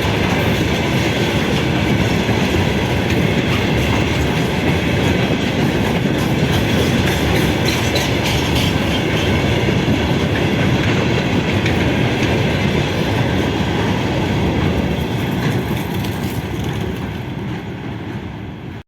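Train passing through a station, wheels clattering over the rail joints with a steady rumble that fades away near the end.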